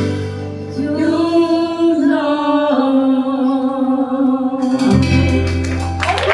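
Live folk-rock band with several voices singing a held vocal harmony over guitar, piano and bass. About five seconds in the full band comes in together, with cymbals.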